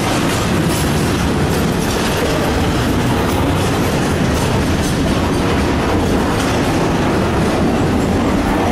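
Double-stack intermodal freight train of well cars rolling past: a steady rumble of steel wheels on the rails, with faint repeated clicks over it.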